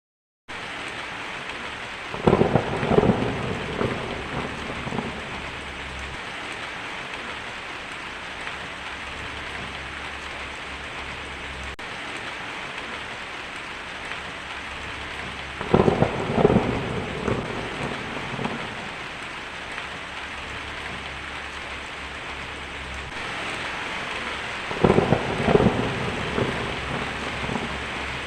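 Heavy rain drumming steadily on a tin roof, with thunder rumbling three times: shortly after the start, about halfway through and near the end.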